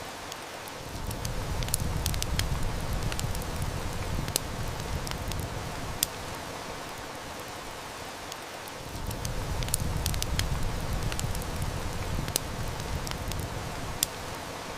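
Steady hiss of heavy rain with the sharp crackles and snaps of a wood fire. A low rumble of distant thunder swells up twice, about a second in and again past halfway, each lasting several seconds.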